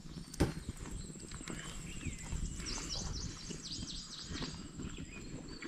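Wild birds chirping, with short gliding calls in the middle, over a thin high steady trill. A single sharp knock comes about half a second in, over a low crackling rustle.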